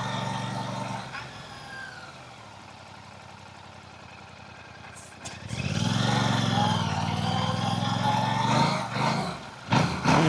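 Royal Enfield Classic 650's 648 cc parallel-twin engine heard through its stock exhaust. It runs loud at first, falls to a much quieter level for a few seconds, then comes back strongly about six seconds in, with a few short dips and surges of the throttle near the end.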